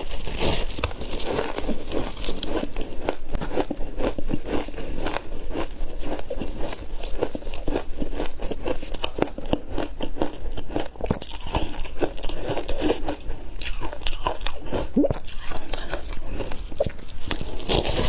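Close-miked biting and chewing of a block of ice: dense, irregular crunches and cracks that carry on without a break.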